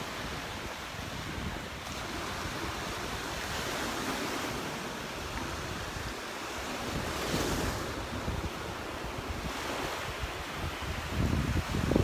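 Gulf surf breaking and washing up on a sandy beach, a steady rush with one wave swelling about seven seconds in. Wind buffets the microphone, rumbling more strongly near the end.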